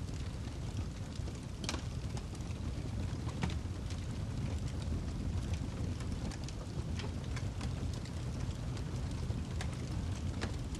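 Wood fire burning in a fireplace: a steady low rumble of flames with frequent sharp crackles and pops from the burning log, a few louder snaps among them.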